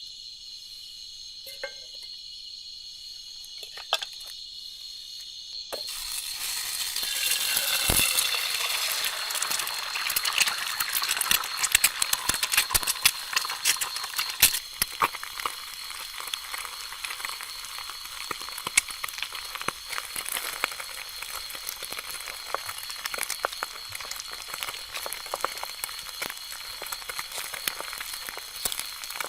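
Food dropped into hot oil about six seconds in: a sudden loud sizzle that swells and then settles into steady crackling frying. Crickets chirp steadily underneath.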